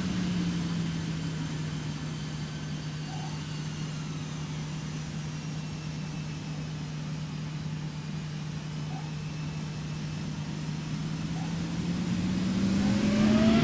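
Jet aircraft engines running steadily at low power, a constant low hum. Starting about a second and a half before the end, they spool up, rising in pitch and getting louder.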